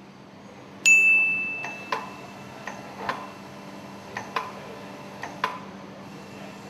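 A sharp metallic clink about a second in rings at a high pitch and fades over about a second. A string of light, irregular metal ticks and clicks follows, over a steady low hum.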